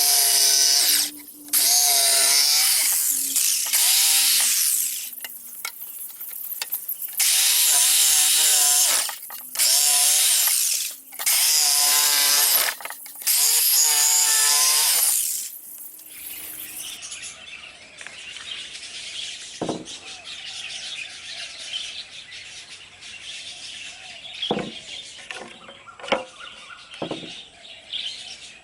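Handheld electric power tool working wood, run in repeated bursts of one to two seconds that stop and start, its pitch wavering under load. About two-thirds of the way in it gives way to a quieter stretch with a few sharp knocks and clicks.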